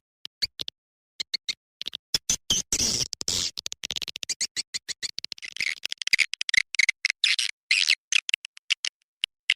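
Recorded swiftlet lure call: rapid trains of high, twittering chirps and clicks with short gaps between them. A denser, noisier stretch comes about three seconds in. This is the sound played from swiftlet houses to draw the birds in.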